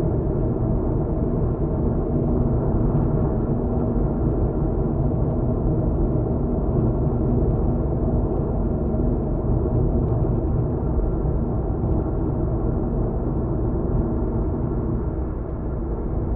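A car being driven, heard from inside the cabin: steady rumble of tyre and engine noise with a faint, constant hum.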